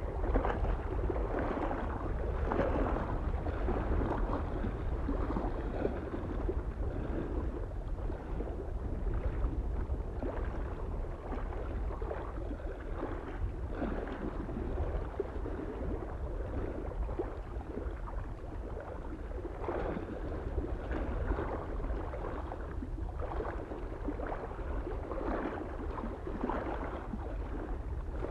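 Small lake waves lapping and splashing irregularly against the shore, over a steady low rumble of soft wind.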